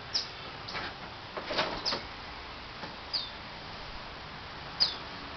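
A bird chirping: four short, high chirps that fall in pitch, spaced a second or more apart, with some rustling in between.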